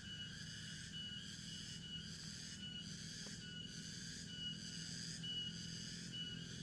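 Tropical forest ambience: a chorus of insects pulsing evenly a little over once a second, with a short high whistling note repeating in time with the pulses, over a low steady hum.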